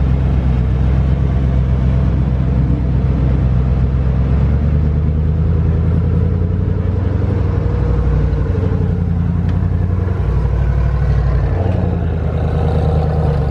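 Car engine running at low revs: a steady, loud drone whose pitch steps up and down slightly a few times.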